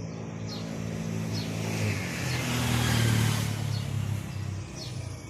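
A motor vehicle's engine going past: a low hum that grows louder to a peak about three seconds in, then fades. Short bird chirps sound over it.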